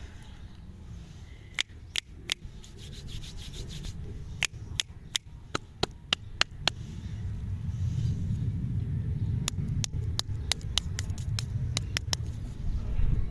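Close rubbing and handling noise with a steady low rumble, broken by many sharp clicks and crackles, some in quick runs.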